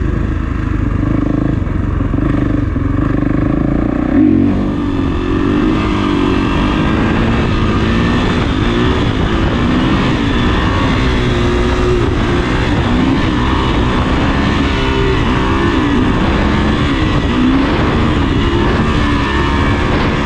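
Kawasaki KX450's single-cylinder four-stroke engine running under way, its pitch rising and falling as the throttle is worked, with a brief louder burst about four seconds in.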